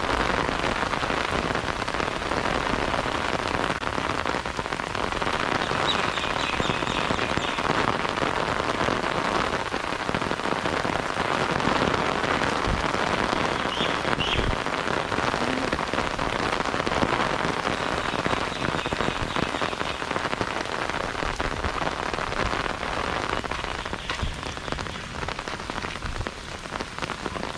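Heavy rain falling steadily, a dense even hiss of raindrops, easing slightly near the end.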